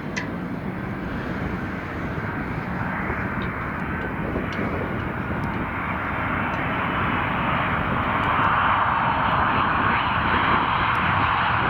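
Jet aircraft engines: a steady rushing drone that slowly grows louder as the plane approaches.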